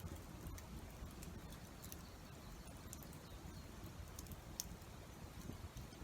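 Faint wood campfire crackling: scattered sharp pops and ticks, a few a second, over a low steady rumble.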